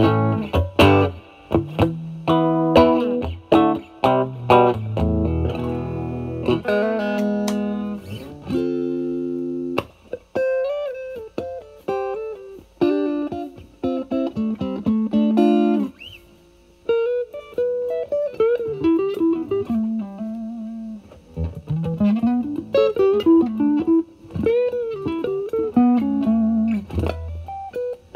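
Fender Stratocaster played through a Vertex Steel String Clean Drive MK1 overdrive pedal with its gain at 12 o'clock, into a Marshall Valvestate amp's clean channel, giving a mildly driven tone. For about the first ten seconds it plays chords, then single-note lead lines with string bends.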